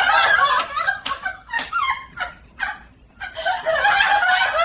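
A parrot's high-pitched squawking, cackling calls in quick succession. They break off for about a second near the middle, then start again.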